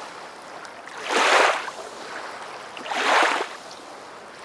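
Rushing, wave-like water noise that swells and fades twice, about a second in and again about three seconds in, over a steady hush.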